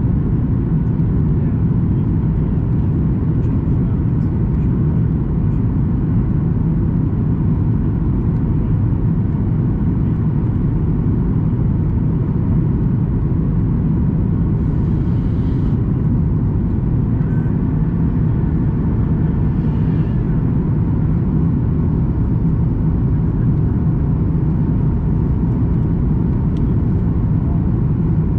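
Steady in-flight cabin noise of a Boeing 737 MAX 8 on descent: a low, even rumble of engines and airflow with a faint steady hum, and a brief hiss about halfway through.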